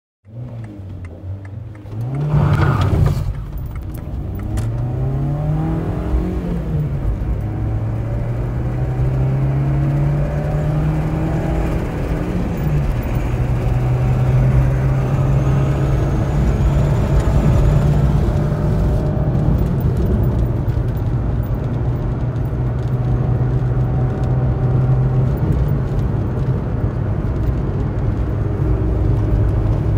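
Peugeot 206's in-line four-cylinder engine accelerating hard through the gears, heard from inside the cabin. The engine note climbs in each gear and drops back at three upshifts, then rises slowly and steadily in the higher gear, with road and tyre rumble underneath.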